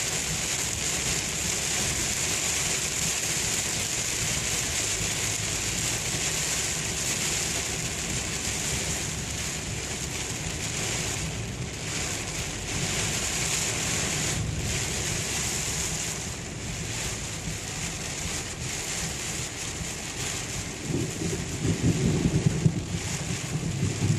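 Heavy rain pelting a moving car's roof and windshield, a steady hiss heard from inside the cabin. A louder, uneven low rumble comes in over the last few seconds.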